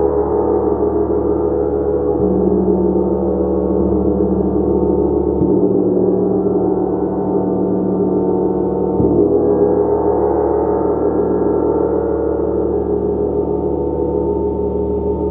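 Gong played continuously in a sustained wash of many overlapping tones, with soft mallet strikes renewing the low notes every three to four seconds.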